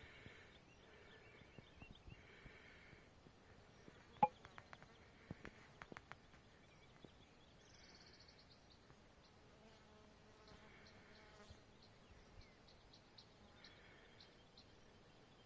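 Faint outdoor quiet with insects buzzing in short bursts on and off, and a few sharp clicks about four seconds in.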